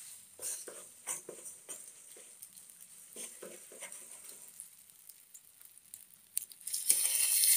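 A spoon scrapes and taps in an aluminium kadhai with beaten egg. About seven seconds in a loud sizzle starts as the egg mixture fries in hot oil.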